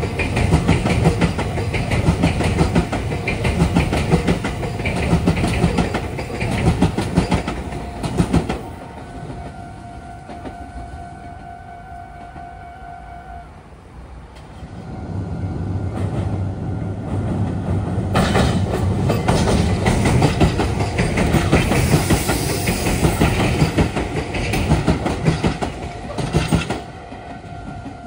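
A Meitetsu 2200 series + 3100 series express train running past with wheels clacking over the rail joints, dying away about eight seconds in. A level-crossing warning signal then sounds a steady tone for about five seconds. A second train passes from about fifteen seconds in until near the end, when the crossing tone starts again.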